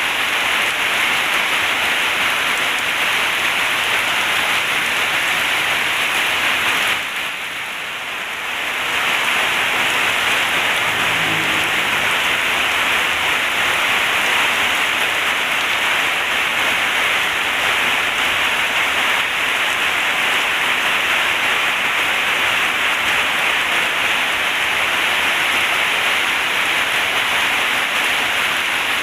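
Heavy rain falling steadily as a dense hiss, drumming on a zinc roof. About seven seconds in it briefly softens, then swells back to full strength.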